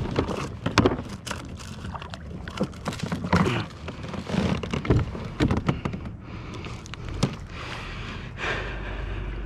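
Irregular knocks, taps and rustling of gear being handled on a fishing kayak, with a few sharper thunks scattered throughout.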